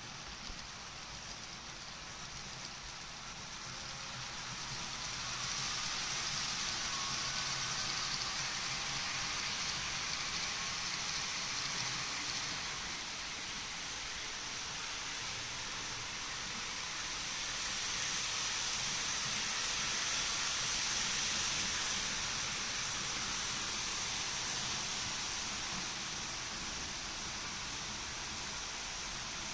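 N-gauge model Shinkansen train running on its track: a steady rolling hiss of wheels on rail with a faint motor whine, swelling twice as the train comes close.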